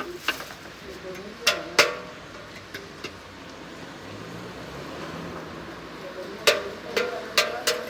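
Bells struck by hand in irregular clusters, each a sharp clang with a ringing tone: two strokes about a second and a half in, then a run of four from about six and a half seconds. A steady hiss of rain lies underneath.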